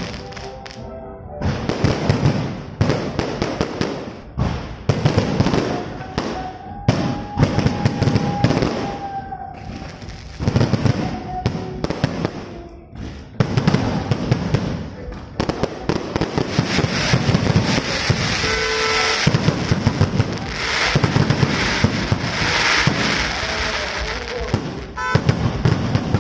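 Fireworks going off: dense, rapid crackling bangs in repeated volleys, with brief lulls between them.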